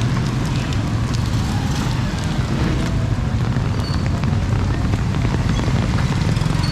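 Heavy tropical rain pattering steadily on nearby surfaces, with many sharp drop hits, over a steady low rumble.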